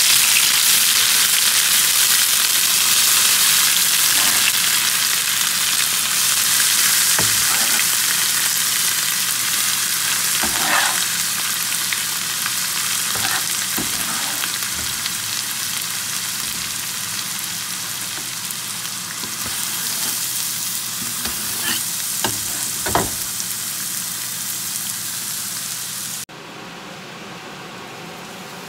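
Chopped Balinese spice paste frying in hot oil in a nonstick frying pan: a loud, even sizzle that slowly fades, with a few knocks of stirring. Near the end it drops suddenly to a quieter sizzle.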